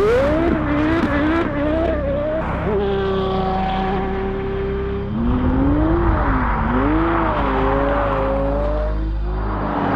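Porsche Carrera GT's V10 through a Kreissieg cat-back exhaust, revving up and down repeatedly under hard driving, held at a steady pitch for a couple of seconds near the middle, with tyre noise from the car being slid.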